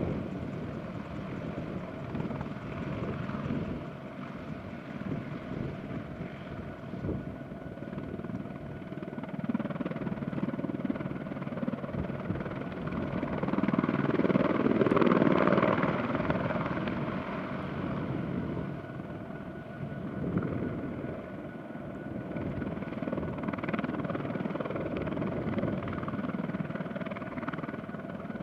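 Boeing AH-64 Apache helicopter in a low hover: the rotor and twin turboshaft engines run steadily, with a steady whine under the rotor noise. The sound swells louder about halfway through, then eases back.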